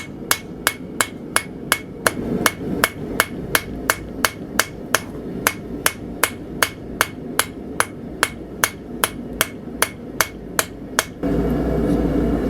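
Blacksmith's hand hammer striking hot steel on an anvil in a steady rhythm of about three blows a second, each with a bright ring, while the tang area of the D-guard is rounded out. The hammering stops about eleven seconds in and a louder steady low rushing noise takes over.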